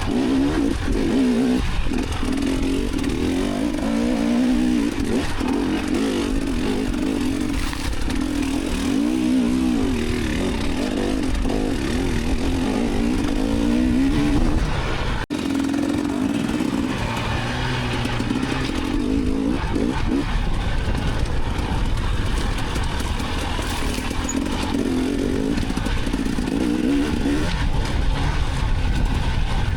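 Dirt bike engine revving up and down as it is ridden, the engine note rising and falling again and again over a low rumble. There is a sudden break about halfway through.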